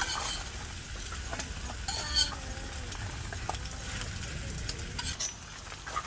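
Food sizzling on a camping griddle as leftover kimchi is stir-fried, with a spatula scraping and clicking against the plate; the loudest click comes about two seconds in. A faint wavering squeak runs through the middle.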